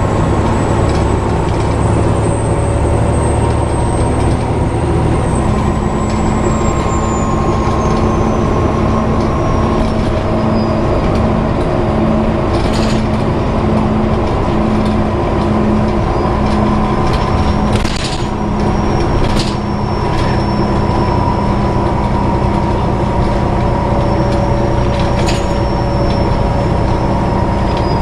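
Volvo B7TL double-decker bus heard from inside while driving: the diesel engine and cooling fan ('hoover') run steadily under a thin, high squealing noise. The squeal slides down in pitch about a third of the way in and then holds, with a few short rattles.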